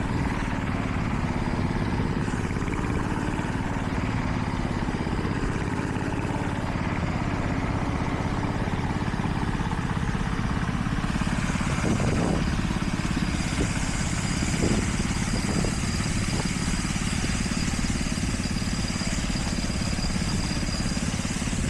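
Construction machinery engine running steadily, with a few short knocks about halfway through.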